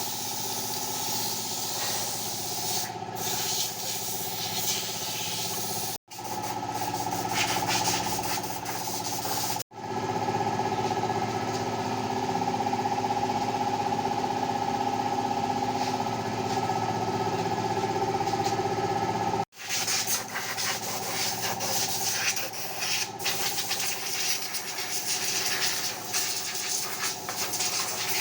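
An engine running steadily under a loud hissing spray, broken by a few abrupt cuts.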